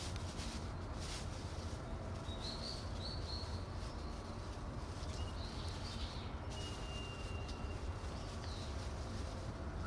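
Birds chirping: a quick series of short high notes about two to three seconds in and a few fainter ones later, over a steady low rumble.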